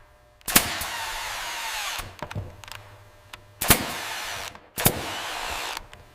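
Power drill running in three short bursts, each starting abruptly, with short pauses between them.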